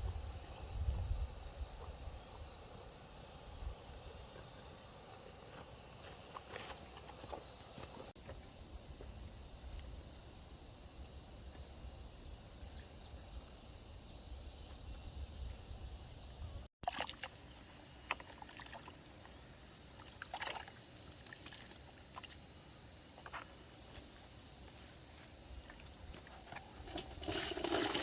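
Insects chirring in a steady, high-pitched pulsing drone, with a few scattered clicks; a louder rushing noise rises near the end.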